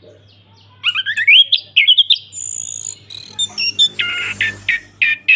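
Chestnut-capped thrush singing a loud, varied song, starting about a second in. It runs through rising whistled glides, a buzzy high-pitched stretch, then quick clusters of short notes. A faint steady electrical hum lies underneath.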